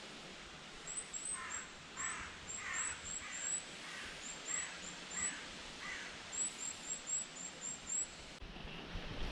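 Birds calling outdoors: a series of about eight harsh, caw-like calls roughly half a second apart, over many short, high, thin chirps from another bird, against a steady background hiss.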